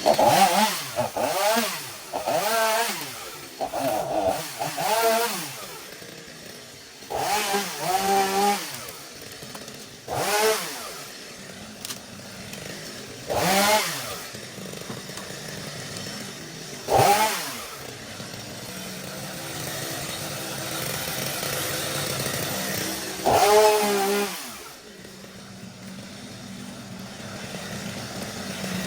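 Chainsaw revving up again and again, each burst rising in pitch and falling back, with the small engine idling between the bursts.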